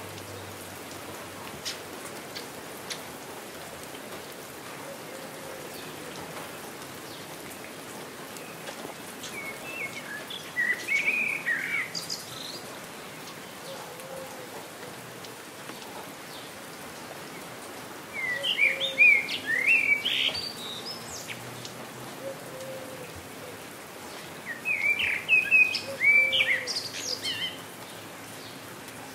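Steady rain falling, with a songbird singing three phrases of quick chirping notes, a couple of seconds each: the first about ten seconds in, then two louder ones near the end.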